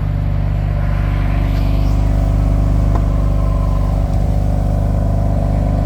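2018 BMW M3's twin-turbo inline-six idling steadily, still cold shortly after its cold start.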